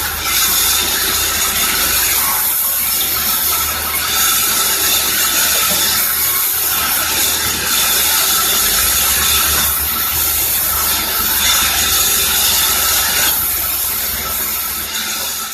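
Sawmill saw cutting wood: a loud, steady hissing noise with a few faint high steady tones over a low hum.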